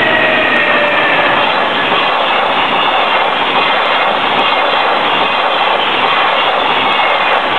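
Freight container train passing close by at speed: a steady, loud rush and rumble of wagon wheels on the rails.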